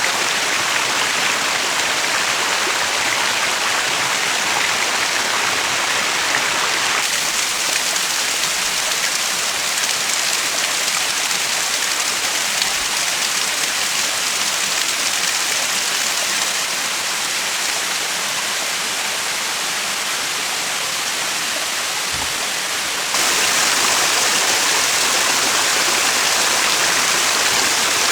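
Steady rush of running water, an even hiss with no distinct splashes, which changes level abruptly twice, about a quarter and four-fifths of the way through.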